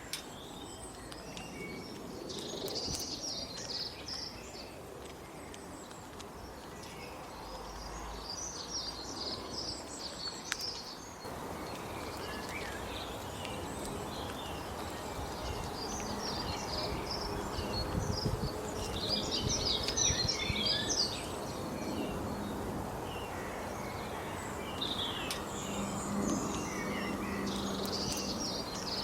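Birds chirping in repeated bursts of short, high calls over steady outdoor background noise, which changes abruptly about a third of the way in.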